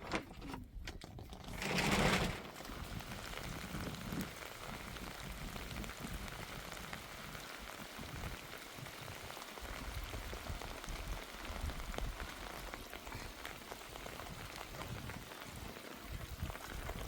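Steady rain falling, an even hiss, with a brief louder rush about two seconds in.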